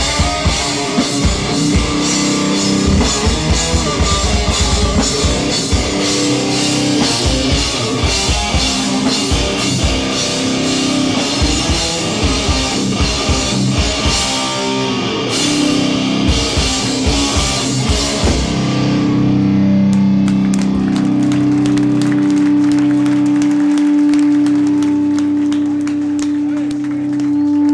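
Hardcore band playing live: distorted electric guitars over a drum kit with fast, heavy bass-drum hits. About two-thirds of the way through the drums stop and a held guitar chord rings on.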